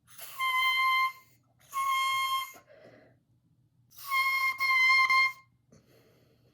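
Oboe sounding three short held notes at the same high pitch, with short gaps between them. The last note breaks briefly in the middle.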